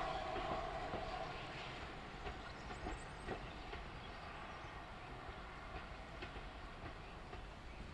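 A passenger train receding along the line, its coach wheels clicking over the rail joints. A steady ringing tone at the start dies away within the first second or so, and the sound fades as the train draws off.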